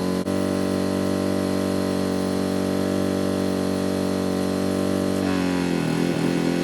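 An engine running steadily at an even pitch; its pitch wavers and shifts about five seconds in.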